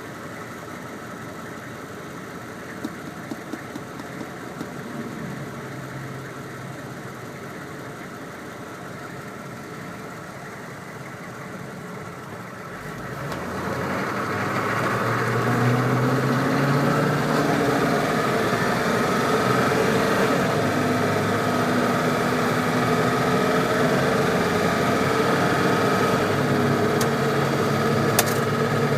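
GEP 6.5 L turbo diesel V8 in a Hummer H1 running quietly at first, then opening up about halfway through as the truck accelerates, and holding steady and louder under load.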